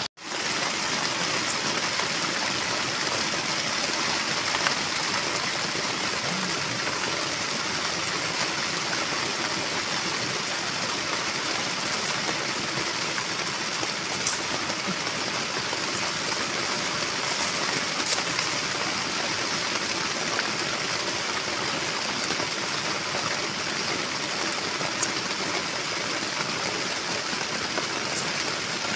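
Heavy rain falling steadily on a tent, an even rushing hiss, with a few sharp clicks over it.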